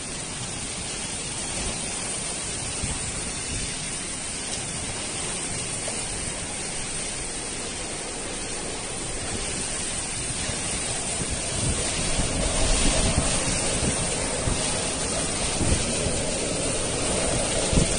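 Steady roar of water, heavy rain or rushing floodwater blending into one even hiss, growing a little louder about two-thirds of the way through, with low thumps of wind on the microphone near the end.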